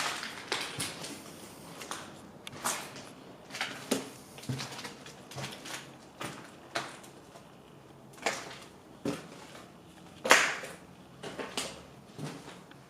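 Footsteps crunching and scuffing over debris on the floor of an abandoned apartment: an uneven series of gritty crunches and knocks, with one louder crunch about ten seconds in.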